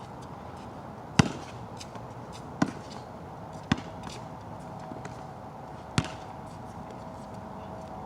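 A basketball bouncing on a wet court, four sharp irregular thuds a second or so apart, over a steady hiss of rain.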